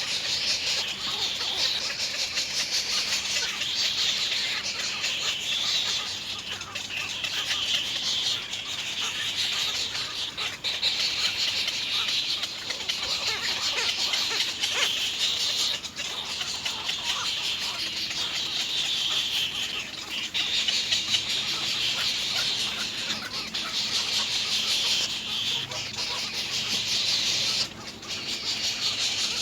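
Nestling birds begging for food: a continuous mass of rapid, high-pitched chirping that swells and eases in waves every few seconds.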